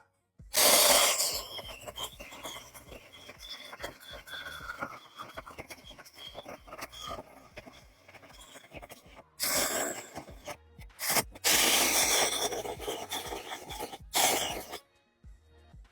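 Cordless mini chainsaw cutting into a wooden railroad tie: one long cut of about seven seconds that fades, then three shorter bursts of cutting in the second half.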